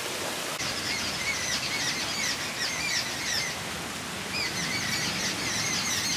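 Birds chirping in a quick series of short rising-and-falling notes, with a brief pause midway, over a steady background hiss.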